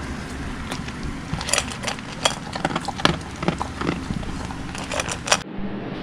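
Scattered light clicks and taps over faint room noise.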